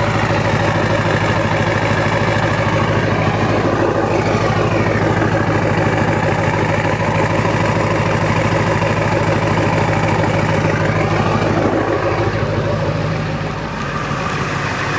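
Ford 7.3 Power Stroke V8 turbodiesel idling steadily while still cold, after a start at 26 °F without the glow plugs preheating. Its loudness dips slightly near the end.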